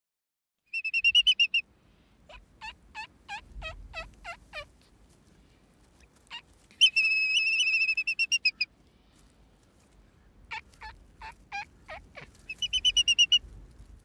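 A bird calling: short rattling trills alternate with runs of quick falling whistled notes, about three a second.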